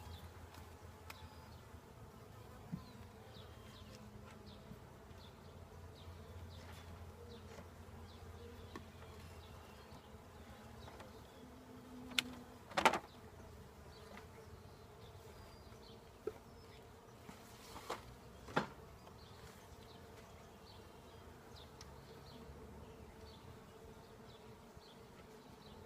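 Honeybees buzzing as a steady hum around an open hive, with a few sharp knocks about halfway through and again a few seconds later.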